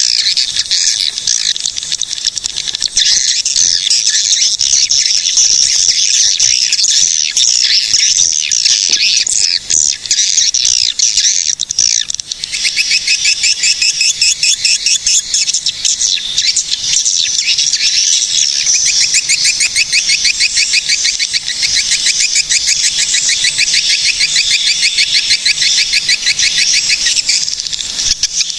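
Swiftlets twittering in a dense, continuous high chatter; from about twelve seconds in, the calls settle into a fast, even run of repeated chirps.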